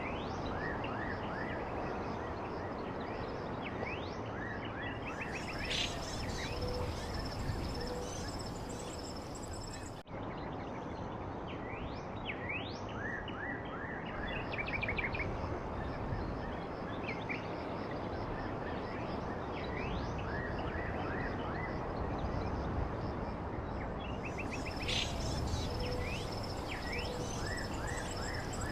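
Small birds chirping in short, repeated calls and quick falling notes over a steady background hiss of outdoor ambience, with a brief break about ten seconds in.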